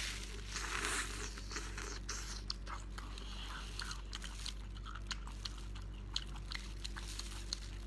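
Close-up chewing and biting of hot-oil-dressed baby octopus tentacles: scattered short, wet mouth clicks and smacks over a steady low hum.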